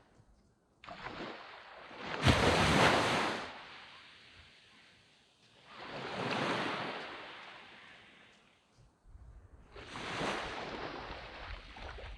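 Small waves breaking and washing up a sandy beach, three in turn, the first the loudest, with a low wind rumble on the microphone in the lulls between.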